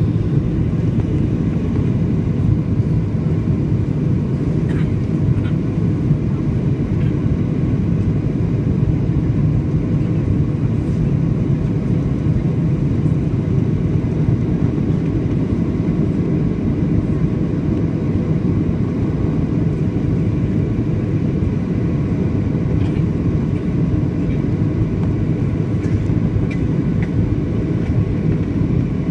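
Steady cabin noise of a Boeing 737-800 in flight: a low rumble of CFM56 engines and airflow with a faint steady hum, unchanging throughout.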